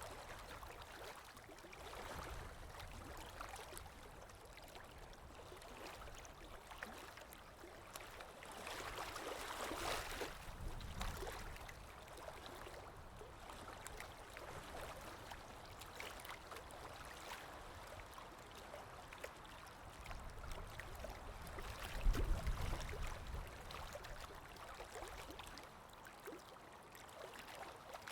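Ambience of water lapping, with wind: a steady wash of noise that swells about ten seconds in, and again a little after twenty seconds, where a low rumble comes in.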